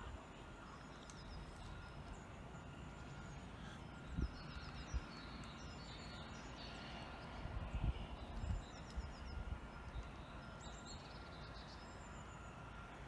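Small birds chirping faintly, short high calls repeated again and again, over a low steady rumble with a few soft bumps.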